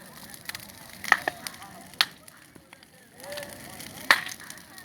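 Bonfire of burning wood crackling, with sharp pops about a second in, at two seconds and again near the end.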